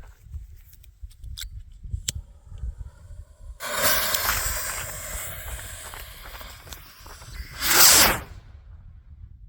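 Homemade rocket motor igniting with a sudden loud hiss that fades over about four seconds, then one sharp loud bang as the 1.75-inch color firework shell bursts.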